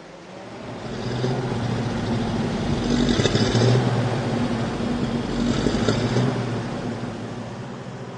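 Ford Canadian Military Pattern army truck's flathead V8 engine running, growing louder about a second in with two stronger swells, then easing off near the end.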